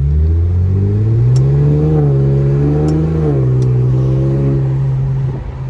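Straight-piped Infiniti Q50's exhaust under acceleration: the engine note climbs for about two seconds and holds, then drops about three seconds in and settles into a steady drone.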